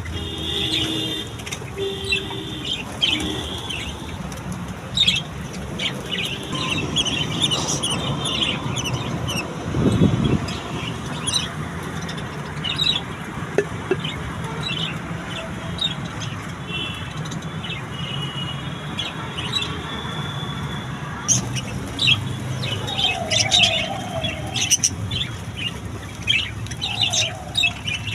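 A flock of budgerigars chirping and chattering without pause, many short, quick calls overlapping, with a dull thump about ten seconds in.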